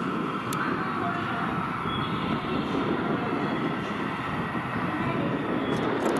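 JR Shikoku 8600 series electric limited-express train approaching and rolling slowly into the station, a steady running noise of the train on the rails, with a brief high click about half a second in.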